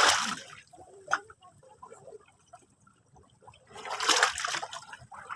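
Sea waves washing onto the shore: one wave surges at the start and fades within about a second, then a quieter lull, and the next wave comes in about four seconds later.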